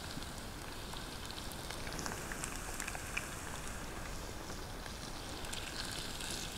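Julienned potatoes frying in hot oil in a pan, a steady sizzle with small crackles.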